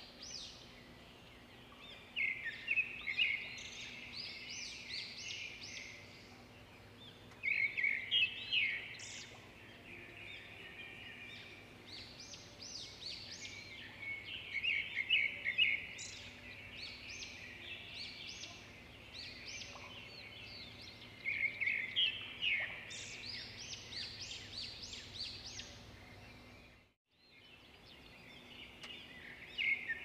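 Birds chirping: many short, high chirps coming in busy clusters over a faint steady hum. The sound cuts out briefly about three seconds before the end.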